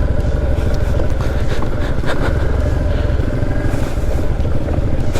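Motorcycle engine running steadily under way on a loose-pebble off-road track, with a heavy low rumble throughout.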